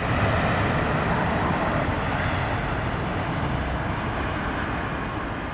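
Cargo jet's engines running, a steady rushing roar that slowly fades.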